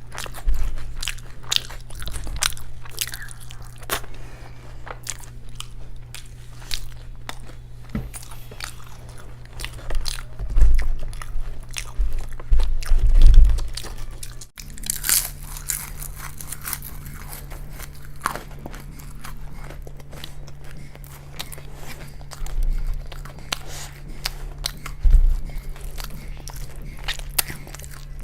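Close-miked eating: repeated crunchy bites and chewing, with a few heavier low thumps and a low steady hum underneath. About halfway through, the sound cuts abruptly and the hum changes.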